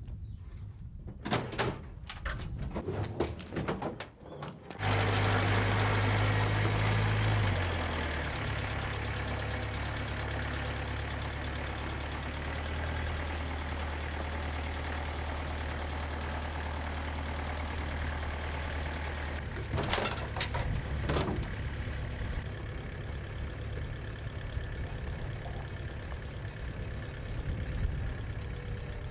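A few clicks and knocks, then an engine starts about five seconds in, runs faster for a moment, settles to a steady idle and keeps running.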